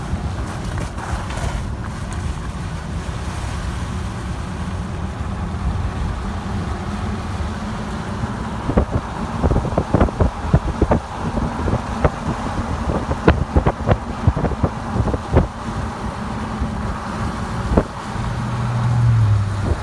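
Car driving, with a steady low engine and road rumble. Through the middle comes a run of sharp knocks and thuds, and near the end a brief low drone.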